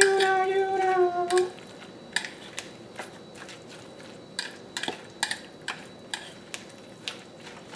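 Light, irregular clicks and taps of a utensil against a bowl while a salad is being mixed, after a drawn-out voice fades in the first second and a half.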